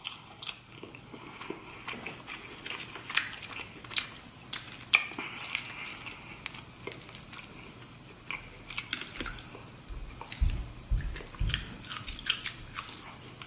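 Close-up wet chewing and lip-smacking of a person eating butter-dipped lobster meat, with many short irregular mouth clicks. About ten seconds in come a few low dull thumps.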